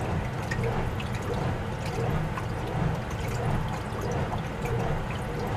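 RCA RPW160-B compact portable washing machine running its wash cycle: a steady low motor hum with water sloshing in the tub.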